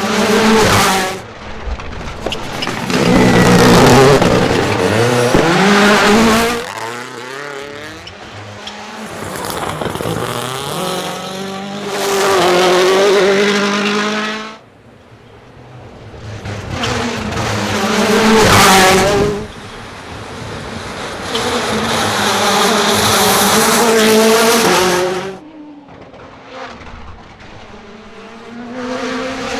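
WRC Rally1 cars at full speed on a rally stage, their turbocharged four-cylinder engines revving hard, rising and falling in pitch through gear changes as they pass. It comes as a string of short clips that cut off suddenly.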